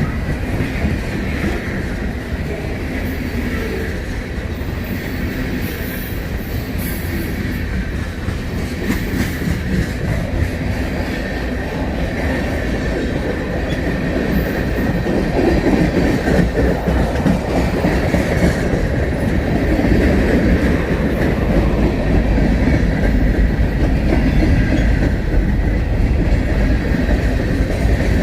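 Freight train cars rolling past, wheels clacking over the rail joints, over a low rumble and a faint high wheel squeal. It grows louder about halfway through.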